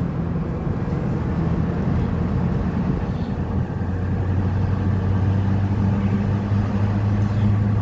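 Pickup truck driving, heard from inside the cab: a steady low engine hum under road and tyre noise. The hum grows a little stronger about halfway through.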